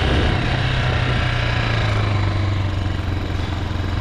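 A Chinese 250cc dirt bike's engine running steadily. Its note drops slightly about halfway through.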